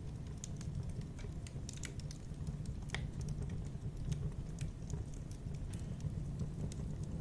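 Wood fire in a fireplace crackling, with irregular sharp pops and snaps over a steady low rumble of the flames; one louder pop comes about three seconds in.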